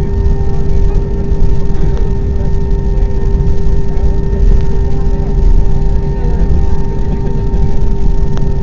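Airbus A320 cabin noise: a steady low rumble with a constant hum.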